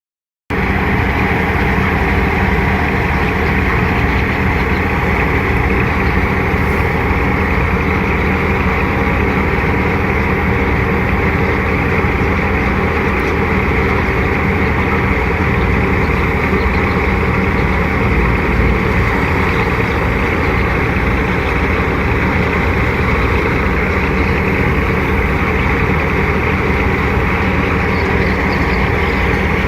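Tractor engine driving a wheat thresher, a loud, steady din of engine hum and machinery rush that starts abruptly about half a second in.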